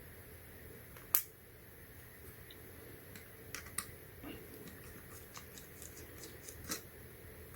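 Light clicks and ticks of a small screwdriver and hand tools working a screw out of a MacBook Air's logic board. One sharper click comes about a second in, then a scattered run of small ticks, the last one the loudest.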